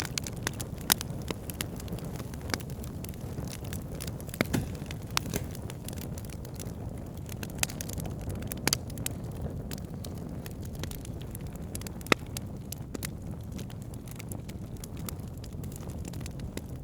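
Wood fire burning in a fireplace: a steady low rumble of flames with irregular sharp crackles and pops. The loudest pops come about a second in and about twelve seconds in.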